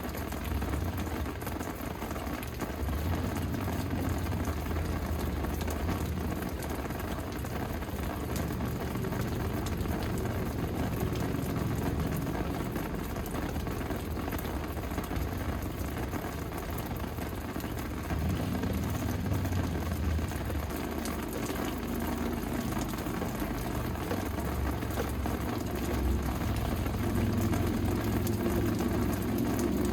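Steady rain falling, an even hiss, with a low rumble underneath that gets a little louder about two-thirds of the way through.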